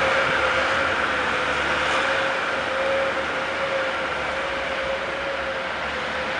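Street traffic in a snowstorm: a vehicle running with a steady whine over a continuous hiss, slowly fading.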